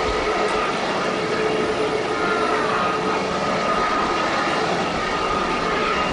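Jet airliner engines running steadily: an even rushing noise with a steady whine held at two pitches.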